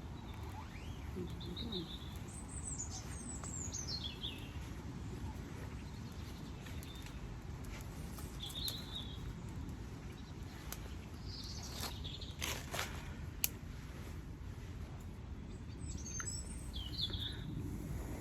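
Small birds chirping, some calls sliding down in pitch, over a steady low rumble, with a few sharp clicks about two-thirds of the way through.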